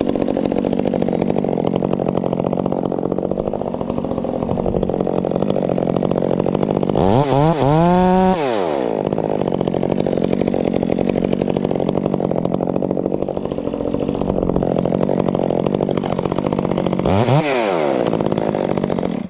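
Gas chainsaw running steadily, revved up to a higher pitch and back down twice, about seven seconds in and again near the end, then it stops abruptly.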